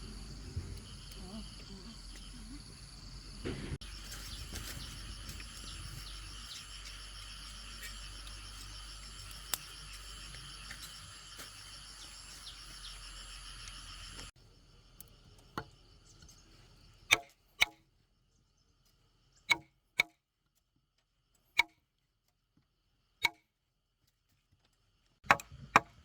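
A steady chorus of insects fills the first half. It cuts off suddenly and is followed by a series of sharp chopping knocks, about nine strikes one to two seconds apart, like a blade or tool striking bamboo.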